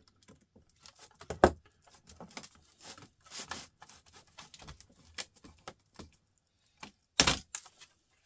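Irregular small clicks, taps and rattles of laptop parts and hand tools being handled during disassembly, with a sharper knock about a second and a half in and a couple more near the end.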